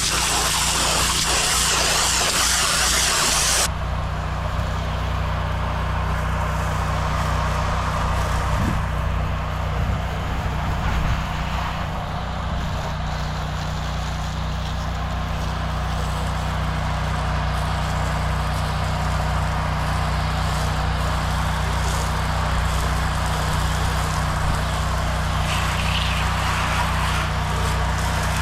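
Pressure washer engine running steadily. The hiss of the high-pressure spray cuts off suddenly about four seconds in, leaving the engine running on its own.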